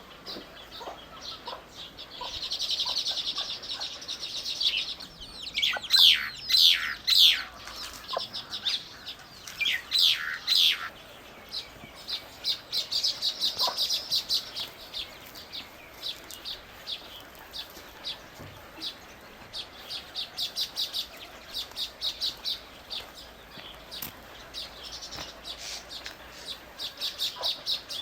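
Birds chirping in rapid trains of high, repeated notes, with a few loud downward-sweeping calls about six to eleven seconds in.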